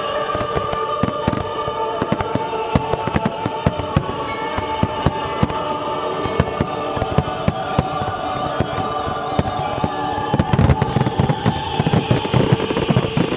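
Fireworks going off over loud show music with a choir-like vocal: frequent sharp pops and crackles, building to a dense barrage of crackling and low booms about ten and a half seconds in.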